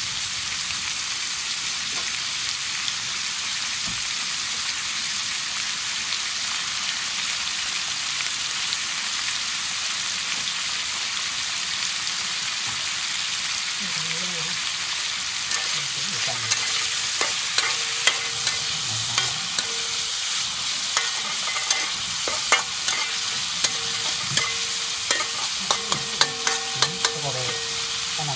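Pork pieces frying in hot oil in a pan, a steady sizzle. From a little past halfway, a metal spatula taps and scrapes against the pan in quick, uneven strokes as the meat is stirred.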